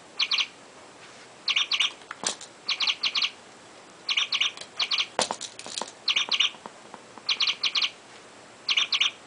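Motion-activated toy chickadee chirping over and over, each time a short burst of three or four quick high notes, repeating roughly once a second. A few sharp clicks are heard in between.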